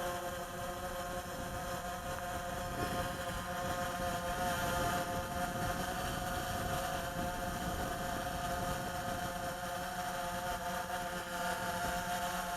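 DJI Phantom 3 Advanced quadcopter hovering, its four propellers giving a steady buzzing whine whose pitch rises slightly about four seconds in and then holds.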